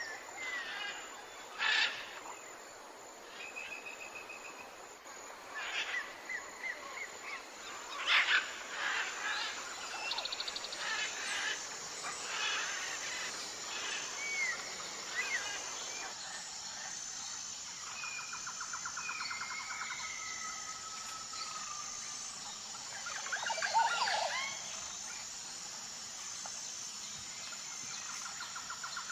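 Several birds calling and chirping: short whistles and chirps of varied pitch, with a faint high, steady pulsing tone behind them. The background sound changes abruptly about halfway through.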